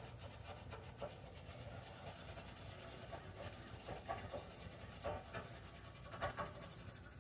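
Scraping and rubbing strokes of a truck battery cable connection being cleaned down to bare metal, a quick steady run of short rasping strokes with a few louder scrapes.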